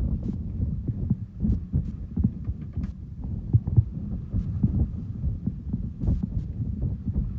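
Low, uneven throbbing rumble on a fishing boat, with scattered small knocks and clicks.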